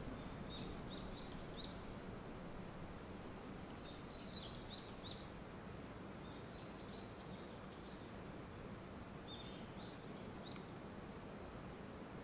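A songbird singing short phrases of quick high chirps, four phrases a few seconds apart, over a steady faint outdoor hiss.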